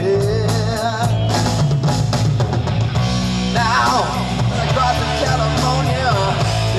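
Live rock band playing between sung lines: steady bass and drums under a lead line of wavering, sliding notes.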